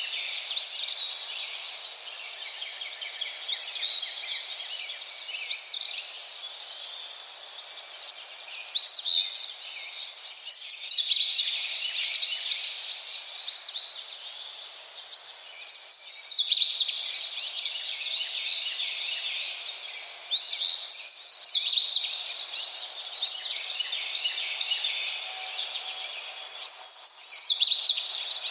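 Songbirds singing: short upsweeping chirps, then loud rapid trills that come about every five seconds and last a second or two each, over a faint steady rush of water.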